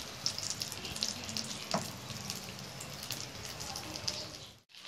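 Breaded chana dal and lauki kababs shallow-frying in hot oil: steady sizzling with frequent small crackling pops. A spatula knocks once against the pan just under two seconds in.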